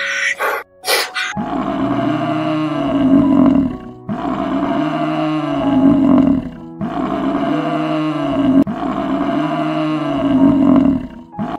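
An animal's deep roaring calls, four long ones of about two and a half seconds each, each rising then falling in pitch, over soft background music.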